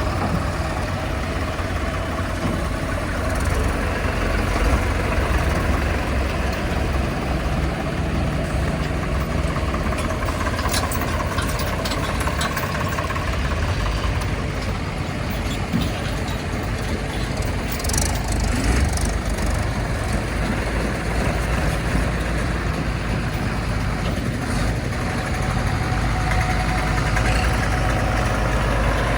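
Heavy diesel engine running steadily at a low, even pace, with a deep rumble and a few faint clicks partway through.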